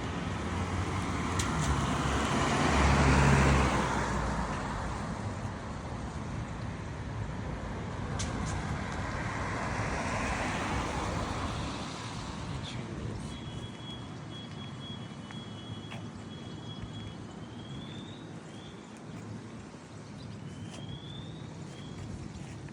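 Road traffic on an adjacent street: two vehicles pass, the louder one with a low engine hum about three seconds in and another about ten seconds in, leaving a steady road hum. In the second half a thin high steady tone and a few short rising chirps sound over it.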